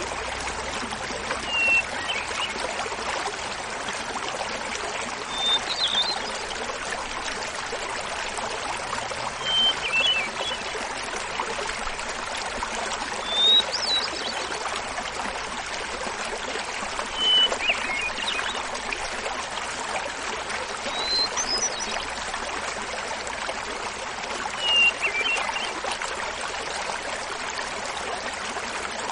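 Hermit thrush singing over the steady rush of a small waterfall. It gives about eight flute-like phrases, roughly one every four seconds, each opening on a held whistle and breaking into a quick higher flourish. The phrases alternate between a lower and a higher pitch.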